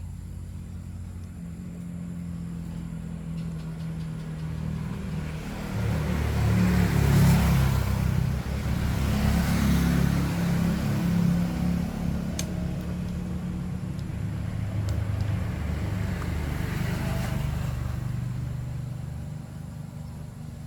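A motor running with a low, uneven rumble, growing louder about six seconds in and easing off toward the end.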